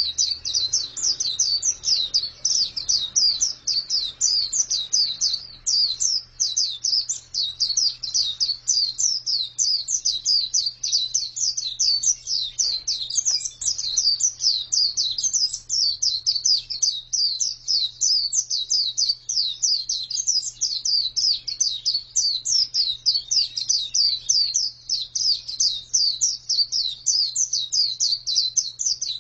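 Female white-eye (pleci) singing a long, unbroken, high-pitched twittering warble of quick short notes, several a second.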